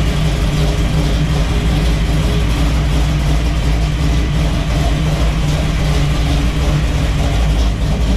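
Classic car's engine and custom dual exhaust running steadily at an even speed, with no revving.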